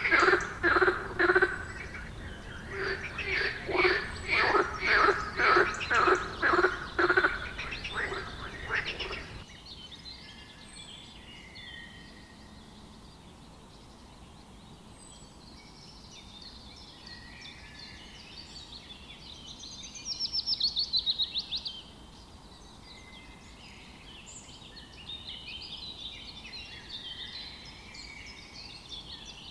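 A frog croaking in a steady rhythm, about two calls a second, stopping abruptly about nine seconds in. Then birds singing and chirping, quieter, with a rapid trill about twenty seconds in.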